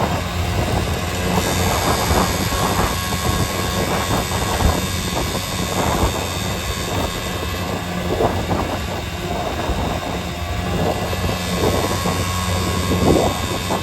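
A vehicle's engine running steadily under road noise, with irregular rattles and knocks.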